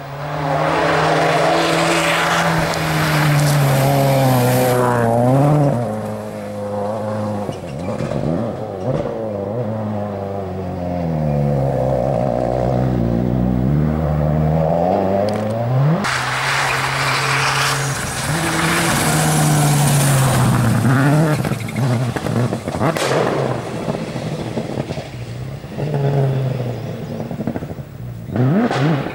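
Rally car engine revving hard through the gears and lifting off for corners, its pitch climbing and dropping repeatedly, with the loudest full-throttle runs early on and again about halfway through.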